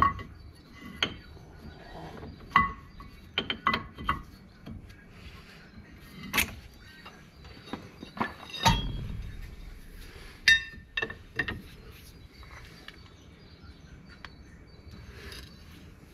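Metal tools clinking and knocking on drum-brake parts as the brake's wheel-cylinder pistons are pushed back. The light clicks come irregularly, with one heavier knock about halfway through.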